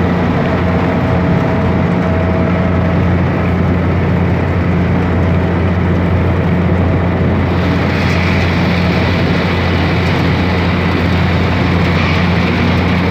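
Engine of a river tourist boat running steadily, a loud low drone heard aboard. A hiss joins in about halfway through.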